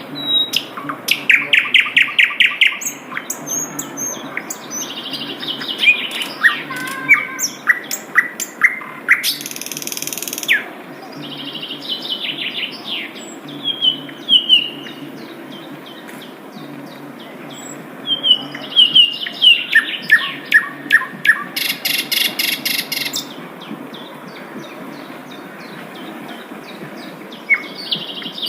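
A sikatan londo (flycatcher) singing in phrases of rapid repeated notes and trills, with pauses between them. Two harsh, buzzy passages come about ten seconds in and again about twenty-two seconds in.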